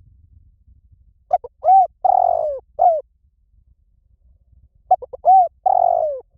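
Spotted dove cooing: two call phrases, about three and a half seconds apart. Each opens with a quick stutter of short notes and goes on into three arched coos.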